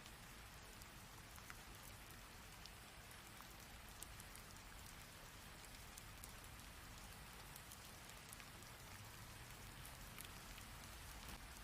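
Rain falling steadily: a constant soft hiss with scattered sharp ticks of single drops striking nearby.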